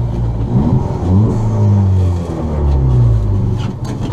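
Ford Fiesta ST rally car's turbocharged engine revving up twice, holding its revs, then easing off near the end; it is running well, not dying.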